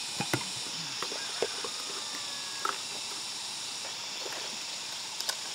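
A few scattered light knocks and clatters, a pair close together right at the start and single ones later, over a steady high hiss from the surroundings.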